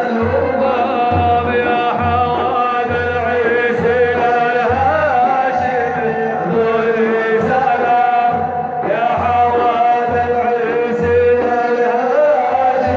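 A male voice sings a Middle Eastern devotional praise chant (madih) with wavering, ornamented melodic lines over a steady low drum beat. The voice breaks off briefly about two-thirds of the way through, then resumes.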